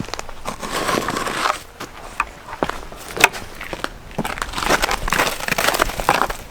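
Footsteps crunching through packed snow, irregular and noisy, with a few sharp clicks.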